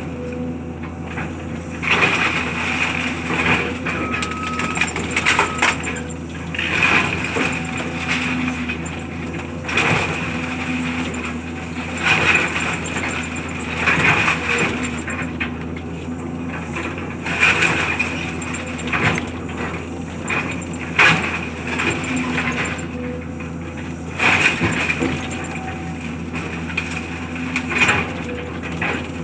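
Heavy machinery engine running steadily under demolition work, with irregular scraping and crashing of debris every second or two.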